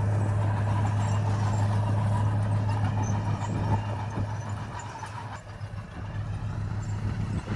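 Diesel engine of heavy earthmoving equipment running at a steady low hum, dropping off a little just past the middle and picking up again near the end.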